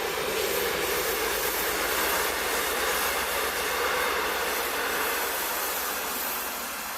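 A large heavy vehicle passing close by: a steady rushing roar that swells just after the start, holds through the middle and fades away near the end.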